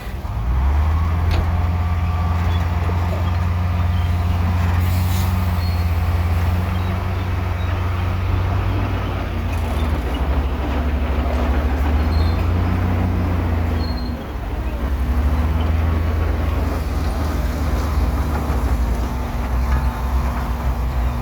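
Heavy diesel earthmoving machinery running steadily, with a deep engine hum and a sharp metallic clank about five seconds in.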